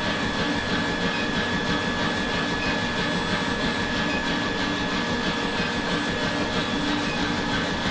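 Workshop machinery running steadily: an electric motor's whine over a rumble and hiss, with no hammer blows.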